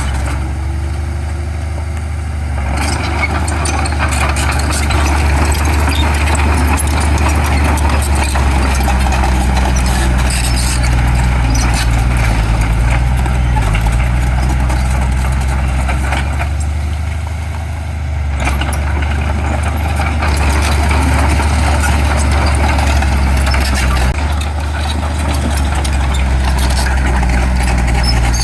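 Heavy diesel construction machinery running steadily, with a low engine drone throughout. A rougher, noisier working sound swells over it twice and eases off for short moments about 2, 17 and 25 seconds in.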